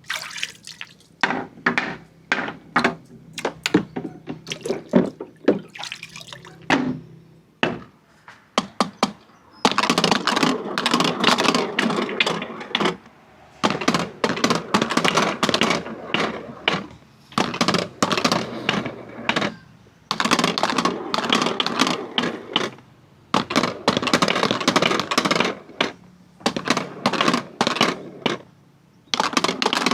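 Marbles rolling and clacking along a wooden marble run. Scattered clicks and knocks at first, then from about ten seconds in, dense rattling runs that start and stop every few seconds.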